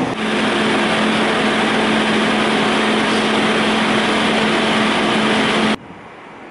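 Passenger train pulling out along the platform: a steady loud running noise with a constant hum. It drops abruptly to a much quieter background near the end.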